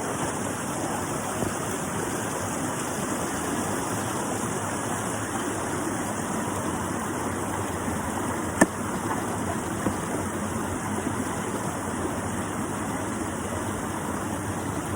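Creek water running steadily, with one sharp knock a little over halfway through.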